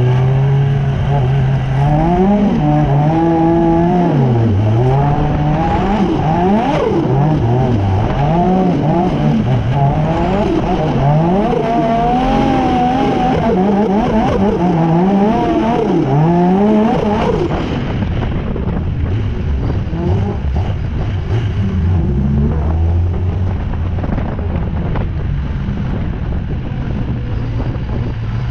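Drift car's engine revving hard, its pitch rising and falling again and again through a sliding run, over tyre noise. About two-thirds of the way in the revs drop to a steady low note as the car rolls slowly.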